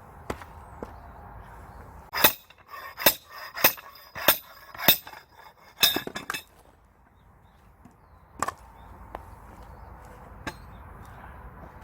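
Steel splitting wedge-axe being struck while driven into a tough log: a run of about eight sharp, ringing metal-on-metal strikes over some four seconds, starting about two seconds in, followed by a couple of faint knocks.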